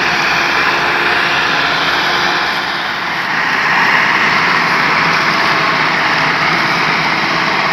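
Tractor diesel engine running hard and loud, a steady engine noise that swells a little about halfway through.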